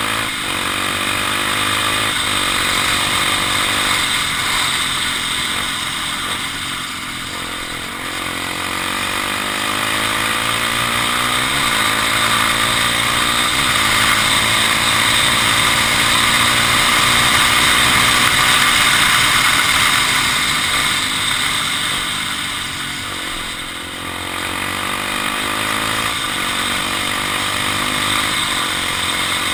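Honda XR 250 Tornado's single-cylinder four-stroke engine running under way, its note climbing and falling again and again as the bike speeds up and slows, over steady wind noise.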